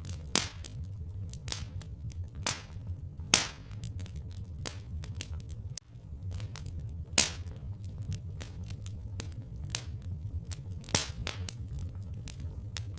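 Log fire crackling, with irregular pops several times a second and a few louder snaps, over a steady low rumble.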